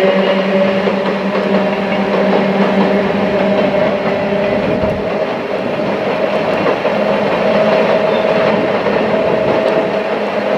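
Freight train of cement tank wagons, hauled by a pair of Sangi Railway ED45 electric locomotives, rolling past at a steady speed. Its wheels run on the rails with a steady rumble and hum.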